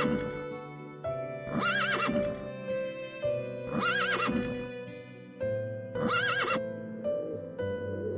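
A horse whinnying three times, about every two seconds, each a short warbling call, over steady background music.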